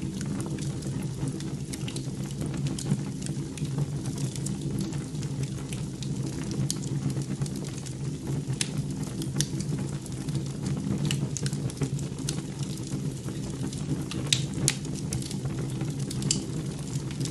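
Wood fire burning in a fireplace, with irregular sharp crackles over a steady low hum.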